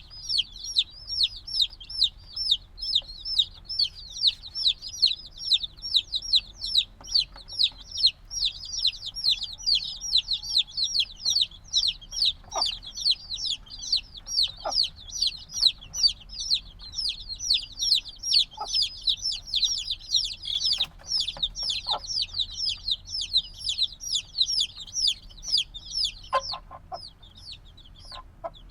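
A brood of chicks a few days old peeping nonstop, many high, short, downward-sliding peeps a second, overlapping. The chorus breaks off sharply about 26 seconds in, leaving only a few faint peeps.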